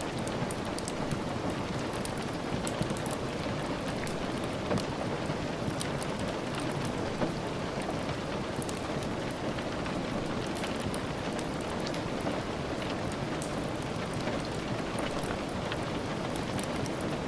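Steady rain falling, an even hiss with many small, sharp ticks scattered through it.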